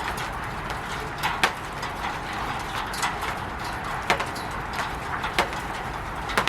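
Rain falling on a roof: a steady hiss, with louder drops tapping at irregular moments, sometimes two in quick succession.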